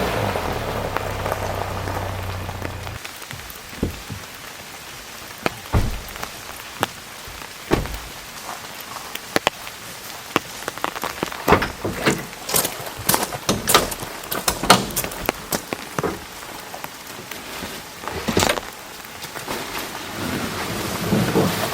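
Heavy rain falling steadily, with individual drops striking a nearby surface in sharp, irregular taps. A low engine hum runs under it and stops about three seconds in.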